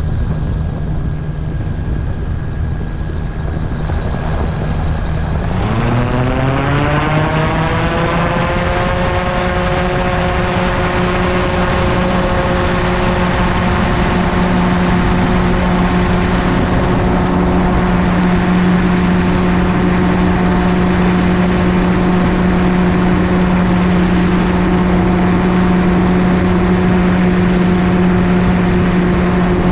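MTOsport gyroplane's engine and pusher propeller running at a steady lower setting. About six seconds in, the throttle opens: the pitch rises quickly, then holds steady at high power.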